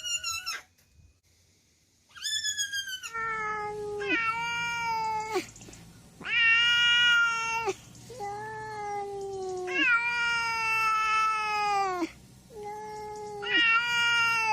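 Cat meowing: about half a dozen long, drawn-out meows in a row, each sliding down in pitch at its end, after a couple of shorter, higher calls.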